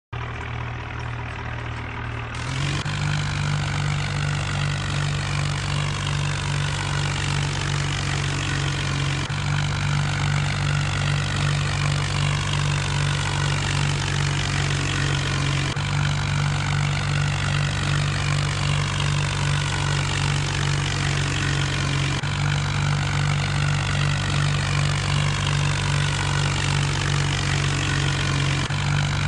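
John Deere tractor's diesel engine running steadily, getting louder and a little higher in pitch about two and a half seconds in, then holding an even drone.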